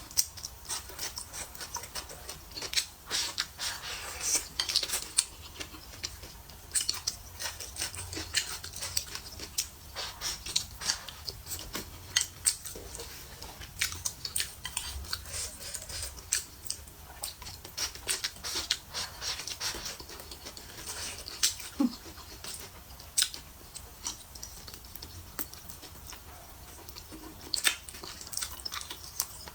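Close-up chewing and lip-smacking of braised pork eaten by hand, a steady run of short, irregular wet clicks and smacks.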